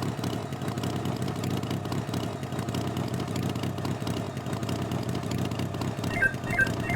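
Engine idling steadily, an animation sound effect. About six seconds in, short high chirping notes start repeating about three times a second.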